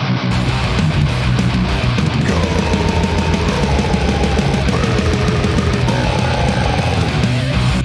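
Heavy metal song: distorted electric guitars, bass and drums playing at full tilt, getting fuller and brighter about a third of a second in. From about two seconds in, a sustained melody line with bends sits over the riffing.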